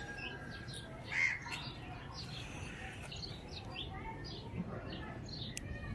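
Birds chirping and calling in the background, a scatter of short chirps with one louder call about a second in.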